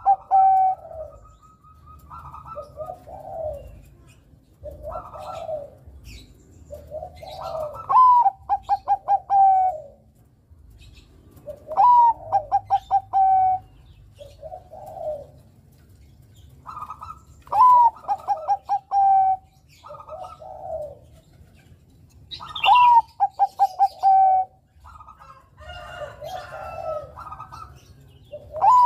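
Bangkok zebra dove (perkutut) cooing its song over and over. Each phrase is a rising opening coo, a quick run of five or six short clipped notes and a held closing coo, repeated about every five seconds with shorter coos in between. Faint high chirps are heard now and then.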